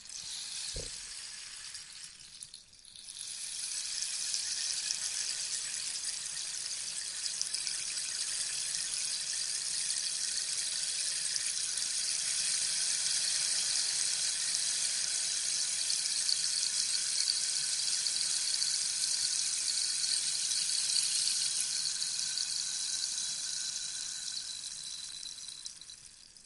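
Rainstick being tipped: the fill trickling and rattling down through the tube with a soft rain-like hiss. A short pour dies away, then after a brief pause as it is turned over, a long pour of about twenty seconds runs and fades out near the end. A faint low knock is heard about a second in.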